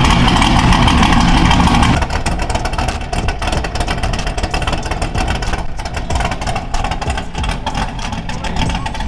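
A loud motor-vehicle engine running, its sound turning rougher and fluttering about two seconds in.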